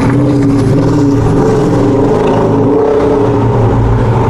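Car engine running loud and steady, its note wavering slightly in pitch.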